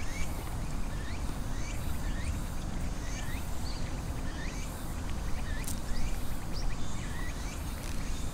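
Small birds chirping again and again, short hooked calls about twice a second, over a steady low outdoor rumble.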